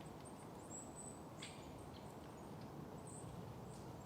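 Faint, short, high-pitched calls of small birds, several scattered chirps over a quiet outdoor hush.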